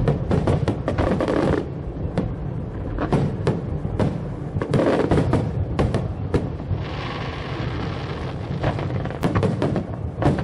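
Fireworks going off in quick succession: deep booms and sharp cracks, with a hissing, crackling stretch around the middle, over music.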